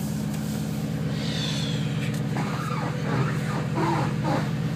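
2008 Shelby GT500's supercharged 5.4-litre V8 idling steadily just after a cold start at 9 °F, after sitting three weeks. A separate, higher-pitched sound rises over it in the second half.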